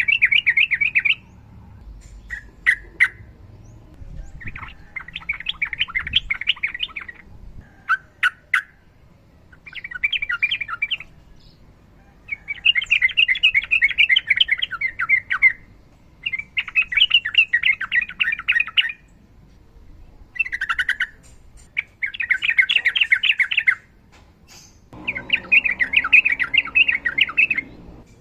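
Sooty-headed bulbul (trucukan) singing long rolling phrases: repeated bursts of rapid chattering notes, each one to three seconds long, separated by short pauses.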